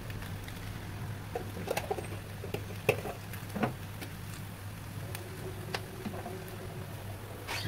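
Fried noodles and vegetables crackling faintly in a stainless steel wok over a steady low hum, with a few short light ticks and pops scattered through.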